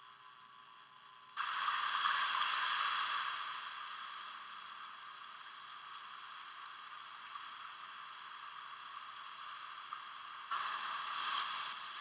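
A steady hiss that cuts in suddenly about a second in, loudest at first and easing off, then jumps up again suddenly near the end.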